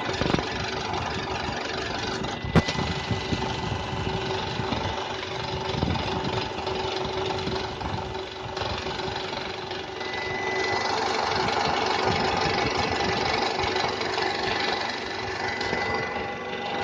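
Toyota Camry V50 engine running steadily with a knock from the engine area, the fault the owner is recording. One sharp click about two and a half seconds in.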